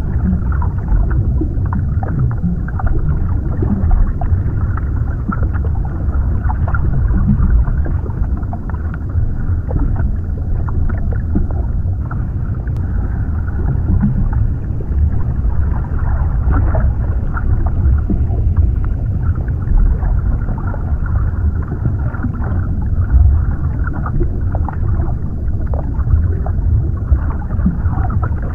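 Underwater ambience: a steady, muffled low rumble with a dull wash of water noise and little high sound.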